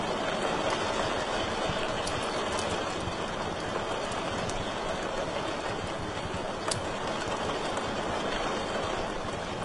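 Wood fire burning in a fireplace: a steady rushing hiss with a few sharp crackles, the loudest about two-thirds of the way through.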